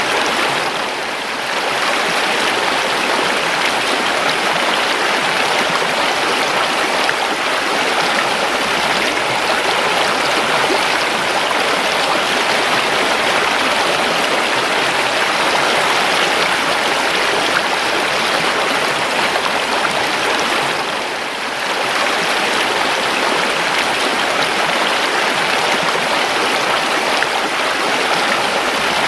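Calm river water flowing over rocks, a steady rushing that eases briefly twice.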